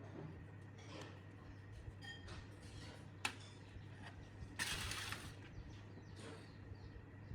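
Scattered light clicks and taps of parts being handled in a workshop, with a brief hiss about two thirds of the way through, over a steady low hum.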